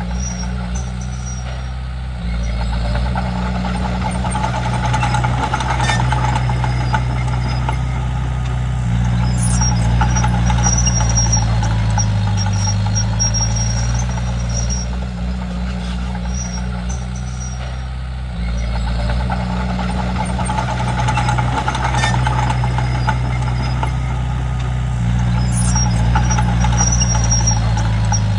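Komatsu D31P crawler bulldozer's diesel engine running under working load, its note shifting up and down as the load changes, growing louder about two seconds in and again around eighteen seconds.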